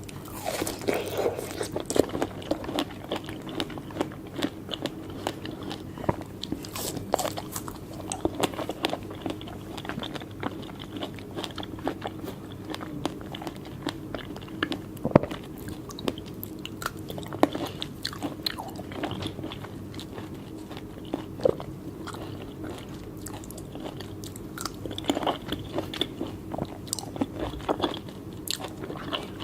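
Close-miked eating of soft fruit (strawberries and cherries): irregular wet bites, chewing and small crunchy clicks, busier at the start and near the end, over a steady low hum.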